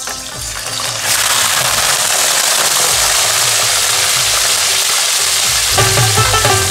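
Raw chicken pieces hitting hot oil in a karahi, starting a loud, steady sizzle about a second in as the meat fries. Music with plucked strings comes in near the end.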